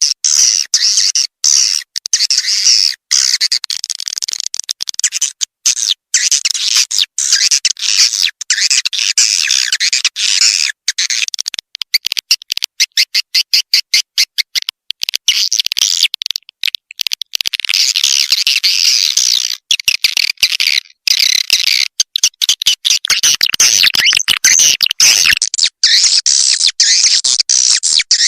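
Swiftlet lure call: a dense, high-pitched chatter of swiftlet chirps and twitters, with a fast run of clicks about halfway through. It is the kind of call track played at swiftlet nest houses to draw the birds in.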